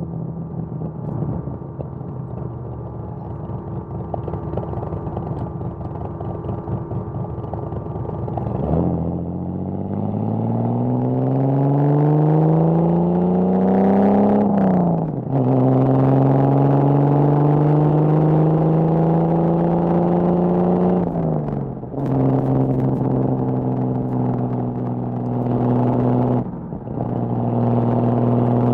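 1979 Datsun 280ZX's L28 inline-six on triple Weber carburettors, heard through an HKS Hi-Power exhaust while driving. It cruises steadily at first, then the revs climb hard from about a third of the way in. The pitch drops sharply at two upshifts, about halfway and about three-quarters in, and there is a brief lift near the end.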